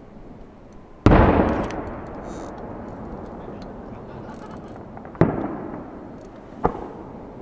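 Aerial fireworks going off: a loud bang about a second in with a long echoing rumble after it, a second bang just after five seconds, and a smaller one near the end.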